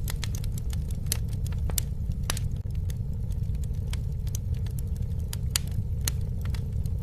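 Campfire burning with a steady low rumble and frequent sharp, irregular crackles and pops.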